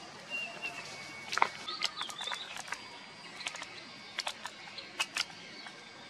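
Birds chirping, with short high calls in the first half and scattered sharp clicks throughout.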